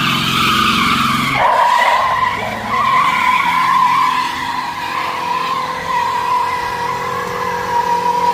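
Junkyard truck's tires squealing steadily as they spin, with the engine revving under it; the engine note drops away about a second and a half in while the squeal carries on.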